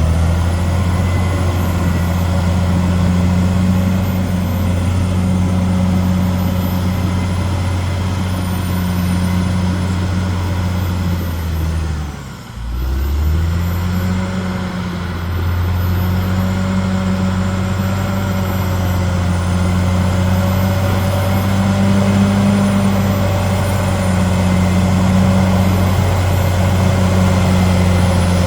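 Caterpillar D6R XL bulldozer's diesel engine running steadily under load. About twelve seconds in, the engine note dips briefly, falling in pitch, then climbs back up.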